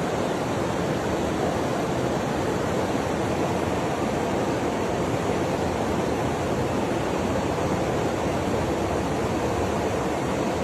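Rock Creek, a fast mountain creek, rushing steadily: an even, unbroken roar of flowing water.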